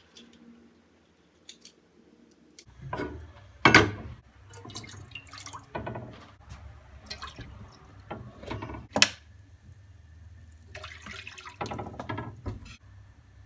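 Water running from a tap into a sink, starting about three seconds in, with irregular splashing and a few sharp knocks.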